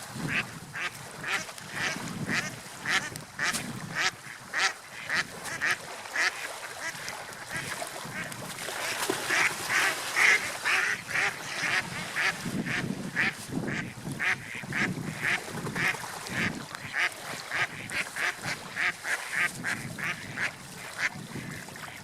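Gulls calling in a long run of short, sharp cries, several a second, over a low rush of wind and waves.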